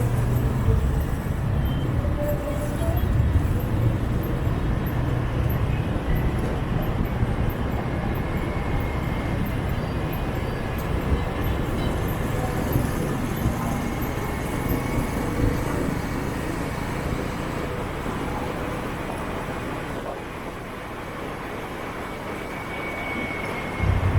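City street traffic heard from a moving motorbike: a steady mix of motorbike and car engines with road noise, under a low engine rumble that eases off in the last few seconds.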